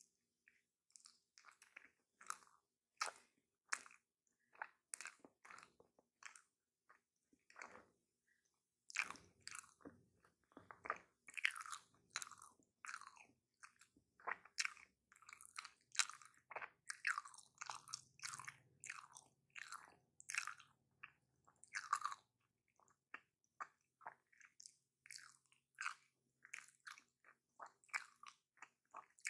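Close-miked chewing of a homemade footlong hot dog in a bun: a rapid, irregular run of short, wet mouth clicks and smacks that grows busier and louder in the middle.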